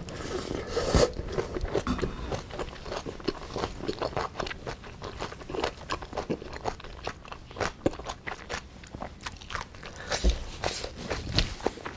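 Close-miked chewing of a mouthful of bibimbap: irregular crunching of the vegetables, with wet mouth clicks throughout.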